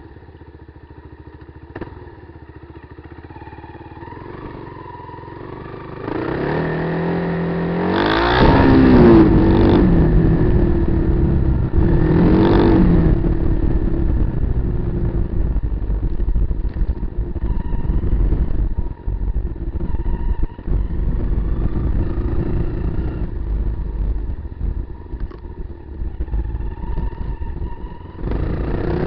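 Kawasaki KLR250 single-cylinder four-stroke engine running, quiet at first, then revving up about six seconds in. It revs twice, with the pitch rising and falling, before settling into a loud, uneven run under riding load.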